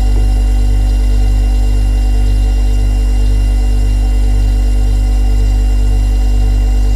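Refrigerator running with a steady, loud low hum and a slow, even throb in it.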